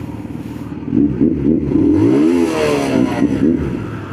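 Kawasaki Z900 inline-four motorcycle revved with a loud exhaust. After about a second of idling it gives a run of throttle blips whose pitch rises and falls, then settles back to idle near the end.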